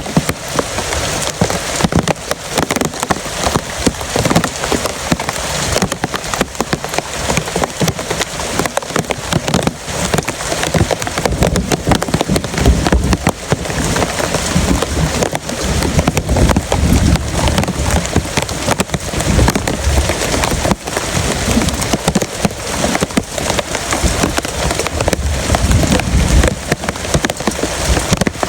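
Heavy rain falling steadily, a dense patter of drops striking a surface. A low rumble comes and goes underneath in the second half.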